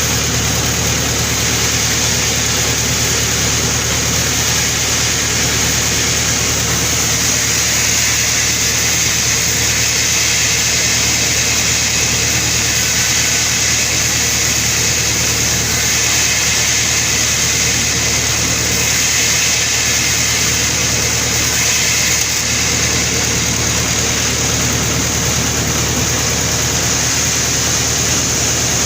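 Sawmill running steadily: a low machine drone with a continuous high-pitched whine above it, unchanging throughout.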